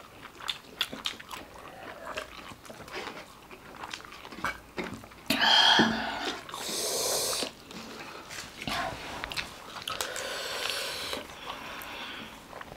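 Close-miked chewing and crunching of food: a run of small, crisp clicks and smacks, with a louder, noisier stretch lasting a second or two about halfway through.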